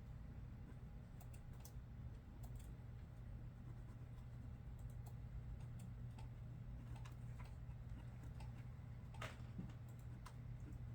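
Computer keyboard typing, sparse and irregular faint key clicks with one louder click about nine seconds in, over a steady low office hum.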